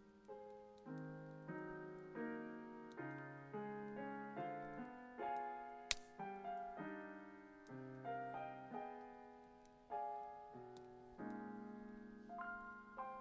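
Background piano music, gentle chords and notes struck about twice a second, each fading away. A few faint clicks and one sharp snap about six seconds in cut across it.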